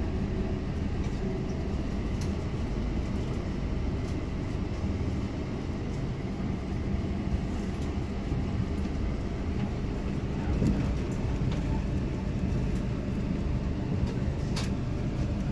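Steady low rumble of a diesel railcar running along the track, heard from inside the passenger car, with a few faint clicks.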